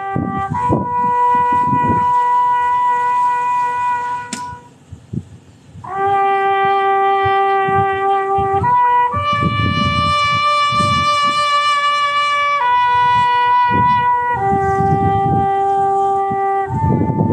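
A bugle call: single held notes, one at a time, stepping between a few pitches every one to three seconds, with a short break about five seconds in. Irregular low rumbling noise runs underneath.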